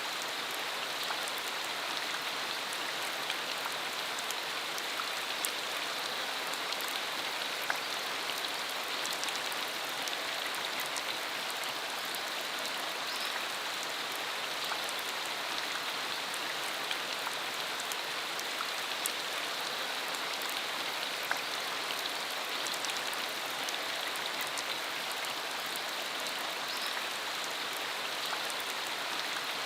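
Steady rain shower falling on a road: a dense, even hiss of rain with many small sharp drop ticks scattered through it.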